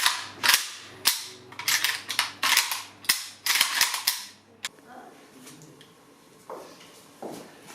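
A rapid, irregular series of about a dozen sharp bangs in under five seconds, then they stop and only a few softer knocks follow.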